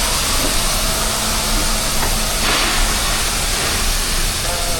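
Steam locomotive letting off steam: a loud, steady hiss that surges briefly about halfway through.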